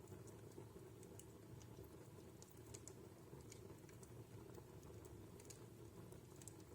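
Wood fire in a fireplace crackling faintly: scattered sharp pops and ticks at irregular moments over a low steady background.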